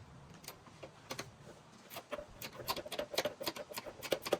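Socket ratchet clicking in quick, uneven runs as strut tower nuts are worked during a strut bar install, with a few scattered clicks at first and a denser run from about halfway.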